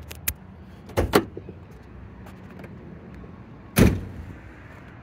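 Clunks of a 1999 Ford F-250's hood being released and opened: a click at the start, two knocks about a second in, and a louder thud near the end.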